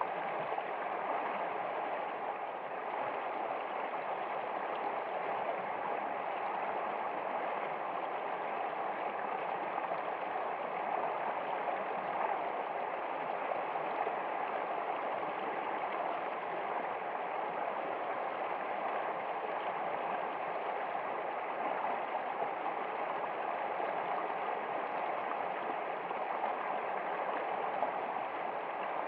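Flowing stream water, a steady, even babble and gurgle with no breaks.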